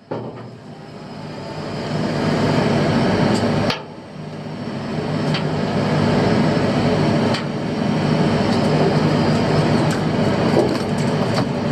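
A fishing boat's engine running under throttle, with hull and water rush. It builds up, eases off sharply about four seconds in, then picks up again and holds steady.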